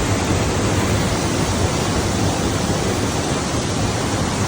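Bradley Falls waterfall: a loud, steady rush of falling water with no break.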